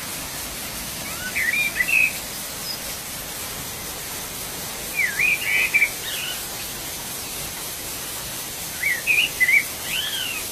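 A songbird sings three short phrases of quick rising and falling notes, about four seconds apart, over the steady rush of a waterfall.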